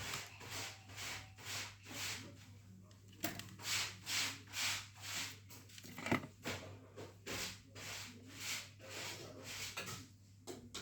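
Repeated back-and-forth scraping or sanding strokes by hand, about two a second with a short pause partway through, over a steady low hum.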